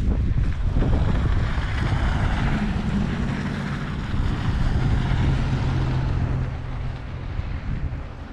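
Wind buffeting the microphone in a blizzard, with traffic on the snowy road; a vehicle's hiss swells and fades a couple of seconds in, and a steady low engine hum follows.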